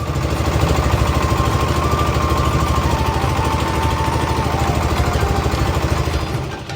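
Boat engine running steadily with a fast low throb.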